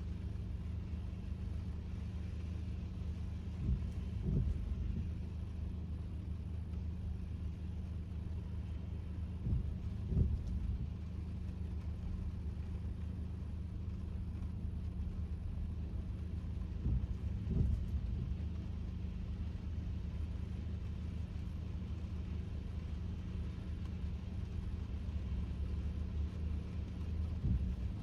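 Steady low road and drivetrain rumble of a Kia K5 (DL3) heard from inside the cabin while driving, with a few brief low thumps, about four times, as the tyres go over bumps.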